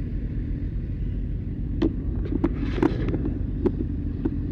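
Steady low car engine rumble, with half a dozen short, sharp knocks scattered through the middle and latter part.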